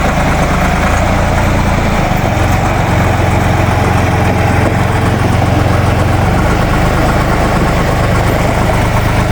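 Ditch Witch trencher-backhoe's air-cooled three-cylinder Deutz diesel running steadily, with a slight change in its pitch about two seconds in.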